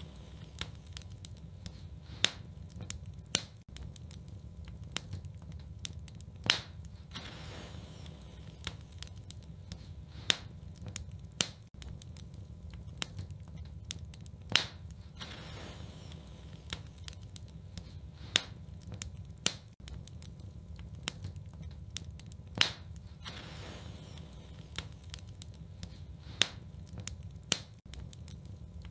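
Wood fire in a fireplace crackling, with sharp irregular pops about every one to two seconds over a steady low rumble of the flames. A soft hiss rises now and then.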